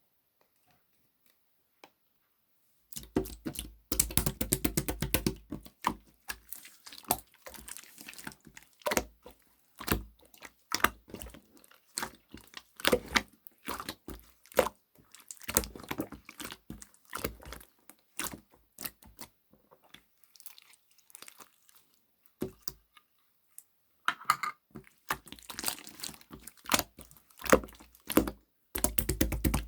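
Jelly-textured slime being squished, pressed and poked by hand, making a dense run of sticky clicks and squelches. It starts about three seconds in and comes in clusters with brief pauses.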